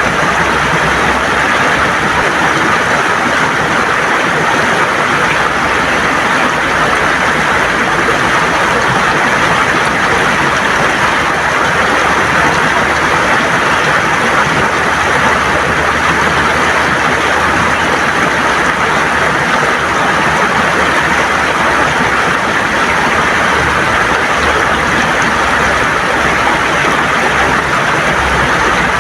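River water gurgling over smooth stones, a steady, unbroken rush of flowing water.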